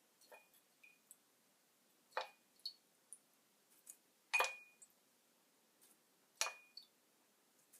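Small hard objects, such as tools or metal parts, being handled and set down: about half a dozen separate clinks and taps, each with a brief metallic ring, the loudest about four and a half seconds in.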